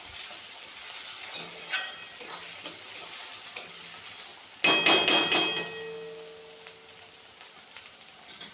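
Chopped tomato and onion frying in oil in a metal kadhai, sizzling while a spatula scrapes and stirs through them. About five seconds in comes a quick run of loud metal clinks that ring on briefly. After that the sizzle carries on more quietly.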